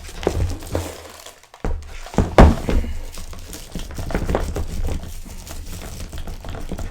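A large plastic collectible figure being handled: scattered plastic clicks and knocks with some crinkling, one louder knock about two and a half seconds in.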